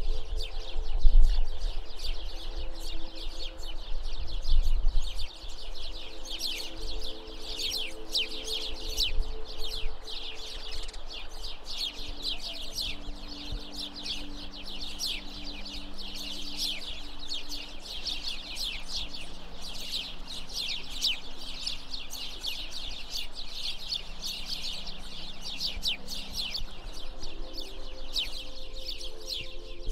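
A dense chorus of many small birds chirping and twittering without a break. Soft held low tones sit underneath and slowly shift pitch, and a low rumble is heard in the first few seconds.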